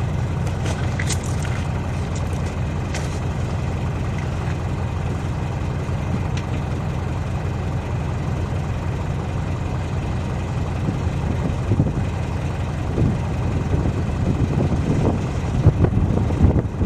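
Diesel engine idling steadily with a low rumble, with a few light knocks near the end.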